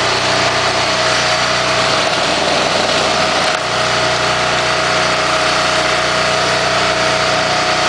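Diesel engine of a firewood splitter running steadily, with a steady high tone over its drone.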